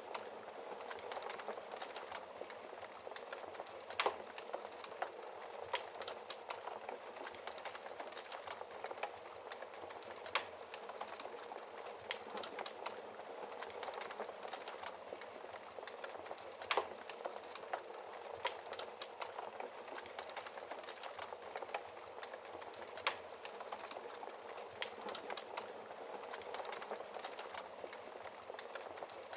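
Wood fire burning in a fireplace: a steady hiss of the flames, with frequent small crackles and a few louder sharp pops from the burning logs.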